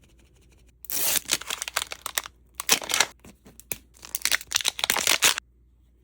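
Plastic packaging of a toy capsule being crinkled and torn open, in three crackling bursts that stop abruptly about five and a half seconds in.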